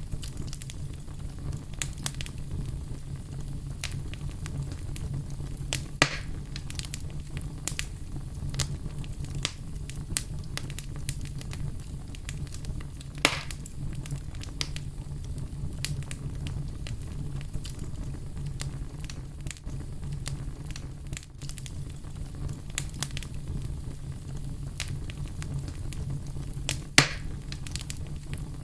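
Fire crackling steadily over a low rumble, with frequent small pops and a few louder snaps about 6, 13 and 27 seconds in.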